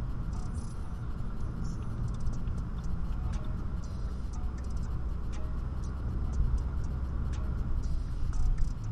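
BMW E90's engine and exhaust running steadily while driving, a low drone that holds without big revs, with faint scattered ticks over it.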